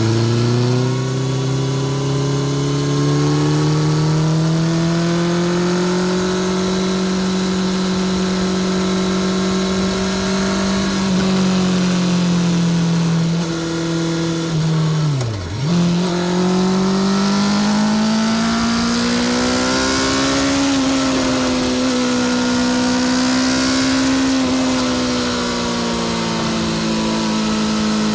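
Honda CBR650R's inline-four engine through a Spark full titanium short exhaust, ridden under throttle: the revs climb and hold steady, drop sharply for a moment about fifteen seconds in and pick straight back up, then rise and ease off gently a couple of times.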